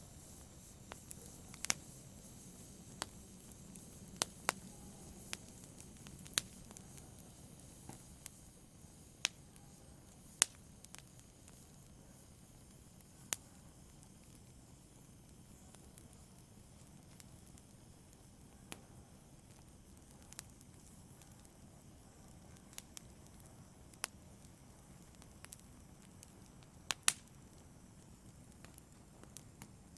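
Fire in a fireplace crackling: scattered sharp pops, one to a few seconds apart, over a faint steady hiss.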